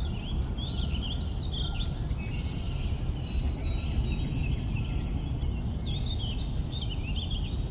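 Several birds chirping and singing, with a quick run of rapid notes about three and a half seconds in, over a steady low rumble.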